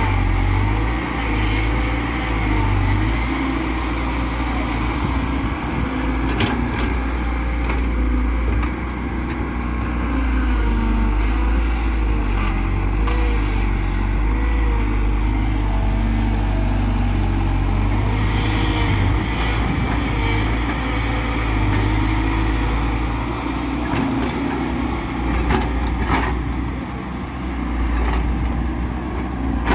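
JCB excavator's diesel engine running steadily under load, its pitch wavering up and down, with a few sharp knocks now and then.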